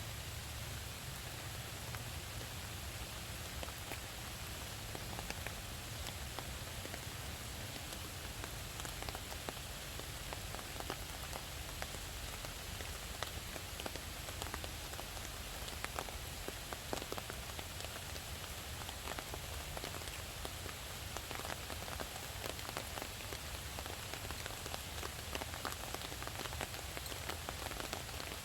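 Steady rain falling, with many scattered separate drops landing as light ticks over the even hiss.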